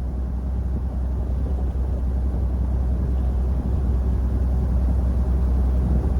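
A vehicle's engine running with a steady low rumble that slowly grows louder.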